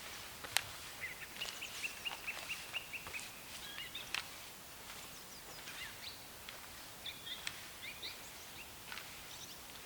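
Wild birds calling in woodland: a quick run of repeated high chirps, about five a second, lasting about two seconds, among scattered other calls. Two sharp clicks stand out, one near the start and one about four seconds in.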